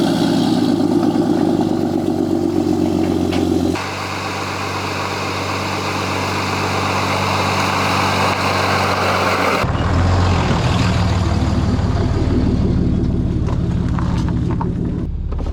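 An engine running steadily with a low hum, its sound changing abruptly about 4 seconds and again about 10 seconds in.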